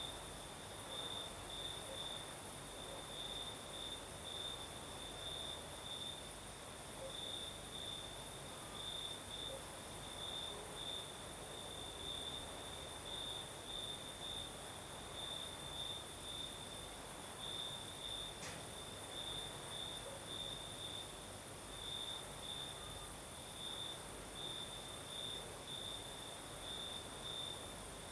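Crickets chirping in a steady, pulsing trill at night, with a second, higher-pitched insect hum running continuously above it over a faint breeze. A single faint tick sounds about eighteen seconds in.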